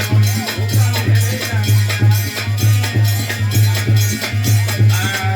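Instrumental interlude of folk music: a steady drum beat of about three strokes a second, with jingling percussion and a faint melody over it.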